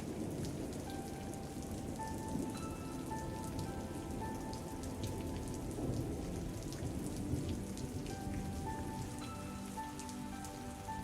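Steady rain falling on a surface, a dense even patter, with a soft, slow melody of held notes playing quietly over it.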